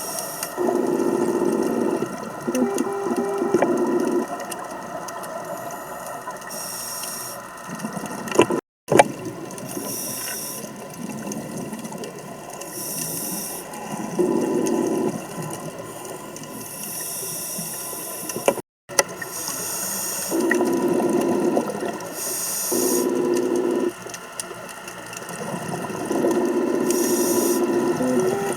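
A scuba diver breathing through a regulator underwater: a buzzing rasp with each breath and hissing bursts of exhaled bubbles, every few seconds. The sound cuts out briefly twice.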